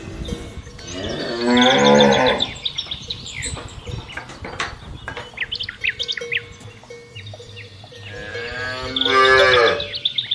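Cow mooing twice: two long, loud calls several seconds apart, the second dropping in pitch at its end. Birds chirp in the background.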